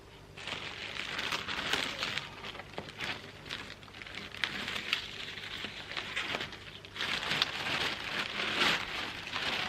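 Gritty rustling and scraping of soil being dug and scooped in a raised bed to plant a sweet potato slip, with many small crunchy clicks, easing briefly twice.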